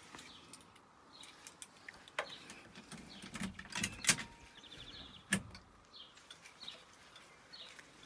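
Small birds chirping over and over. Several sharp clicks and knocks come between about two and five and a half seconds in, the loudest near the middle, from handling around the open door and interior of the parked car.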